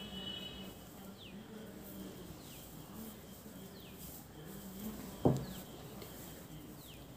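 A bird calling a short, high, falling chirp again and again, about once every second and a half. A single thump comes about five seconds in.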